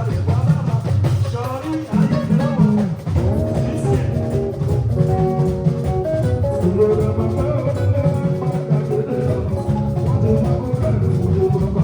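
Fuji band music playing: drums and percussion driving a steady beat under melodic instrument lines.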